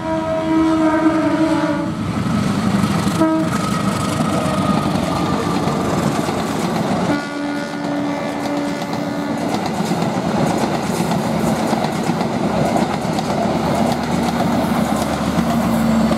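Locomotive-hauled passenger train passing, its wheels clattering on the rails. The locomotive's horn sounds a blast that ends about two seconds in, a brief toot a second or so later, and another blast of about two seconds midway.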